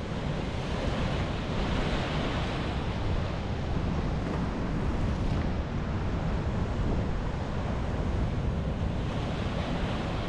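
Sea surf washing onto a beach, with wind buffeting the microphone as a steady low rumble. The wash of the waves swells about two seconds in and again near the end.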